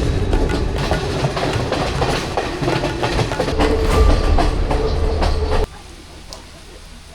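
Train running along the rails, its wheels clattering over the track in a dense run of clicks; the sound cuts off abruptly after about five and a half seconds, leaving a much quieter background.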